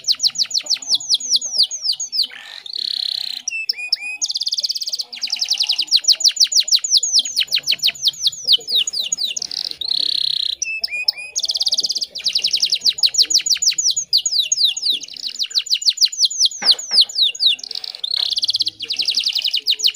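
Domestic canary singing: long rolling phrases of fast, high, repeated trill notes, each lasting a few seconds, separated by short pauses.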